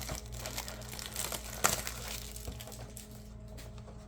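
Plastic wrapping on a pack of trading cards crinkling and crackling as it is handled and torn open, with one sharper snap about a second and a half in, over a steady low hum.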